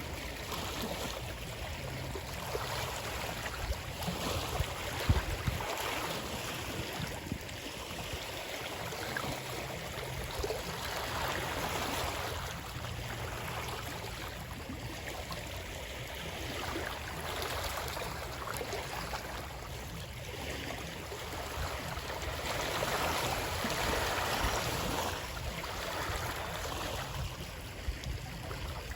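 Running water, rising and falling in level every few seconds, with a brief sharp knock about five seconds in.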